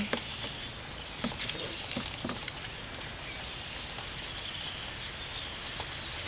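A small child's footsteps in deep snow: scattered soft crunches and taps over a steady outdoor hiss.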